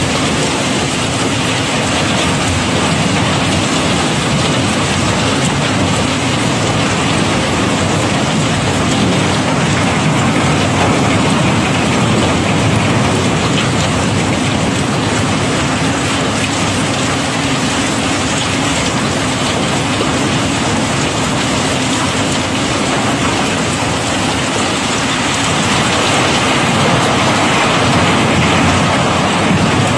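Cobblestones flowing and rattling in a continuous stream as a barge is unloaded, a dense, unbroken clatter of many stones knocking together.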